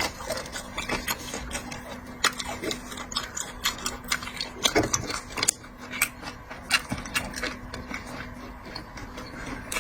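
Close-miked eating and food-handling sounds: irregular sharp clicks and smacks, several a second, over a faint steady hum.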